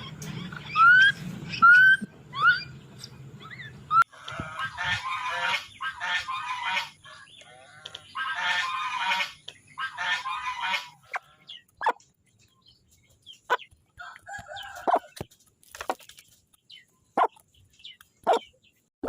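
Domestic fowl calling: about four seconds of short, repeated rising goose honks, then a rooster crowing twice, then scattered short clucks and chirps.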